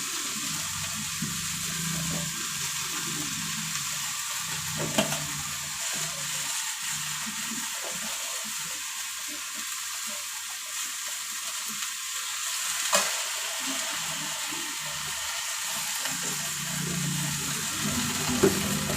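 Water spinach stir-frying with garlic in a hot pan: a steady sizzle, with a few sharp knocks of the stirring utensil on the pan.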